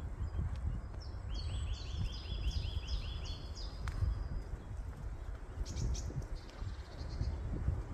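A songbird sings a quick run of about ten repeated high notes starting about a second and a half in, followed by a few shorter chirps near the end, over a continuous low rumble.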